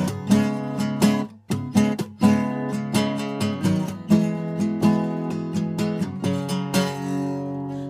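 An acoustic guitar strummed in a steady rhythm, with a short break a little over a second in. Near the end the last chord is left to ring.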